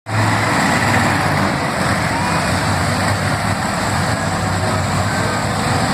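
Monster truck engine running loud and steady, a constant low drone under a dense roar.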